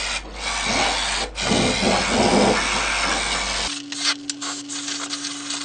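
Aerosol brake cleaner sprayed in a long hissing jet with short breaks, degreasing the gearbox housing. About three and a half seconds in the hiss stops and a steady blower hum takes over: a hot-air gun running to warm the housing for fitting new ball bearings.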